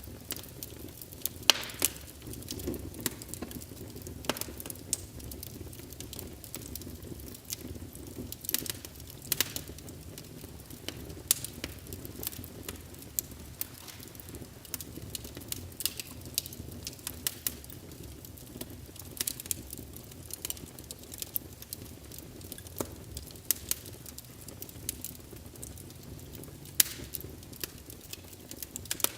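Wood fire in a fireplace crackling: a steady low rumble of burning logs with irregular sharp pops and snaps, a few noticeably louder than the rest.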